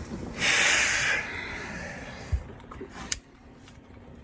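A sharp hissing breath of pain, under a second long, then two faint clicks.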